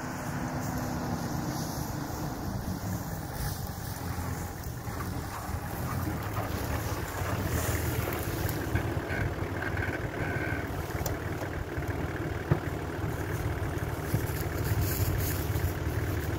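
Nissan Safari 4x4's engine pulling up a steep grassy slope and getting louder as it draws close, then running near the microphone, with wind buffeting the microphone. A single sharp click sounds about three-quarters of the way through.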